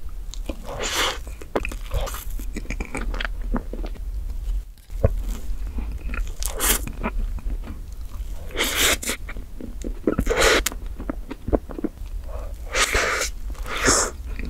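Close-miked biting and chewing of forkfuls of chocolate whipped-cream cake, in repeated mouthfuls a second or so long.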